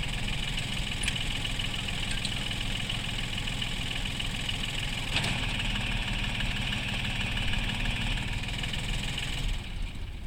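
Iseki TA247F compact tractor's diesel engine idling steadily.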